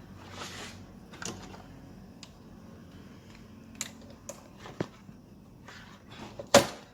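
Scattered light clicks and taps of hands working with tools and engine parts, with one loud, sharp clack near the end.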